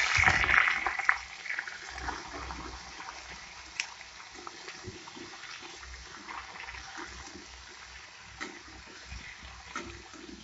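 Sliced raw green bananas frying in hot mustard oil in a kadai: a loud burst of sizzling for the first second or so, settling into a steadier, quieter sizzle. There are occasional taps and scrapes of a metal spatula against the pan.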